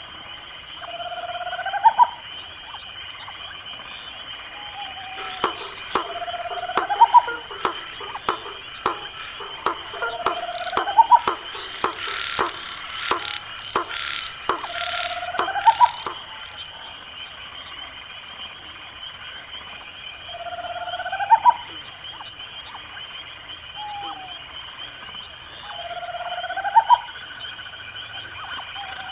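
Night chorus of crickets: a steady high trill with a fainter, evenly paced high ticking. Over it, an animal call repeats about every five seconds, a short falling note followed by a note that rises sharply. A run of rapid clicks comes in about five seconds in and stops about ten seconds later.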